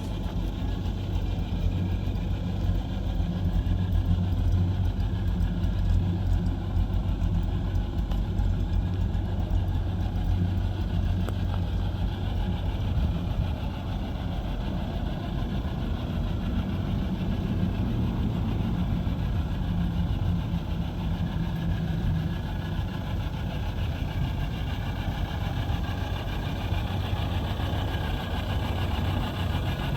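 1948 Studebaker M5 pickup's Champion 169 cubic inch flathead six running steadily, a low, even engine sound with gentle swells in level.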